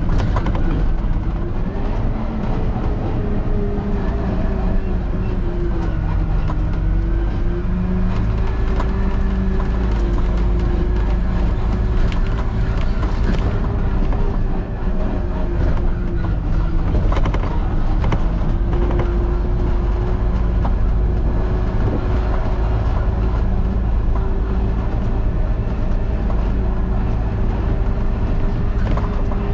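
Peterbilt truck's diesel engine running while driving, a steady drone whose pitch dips and rises a little with engine speed.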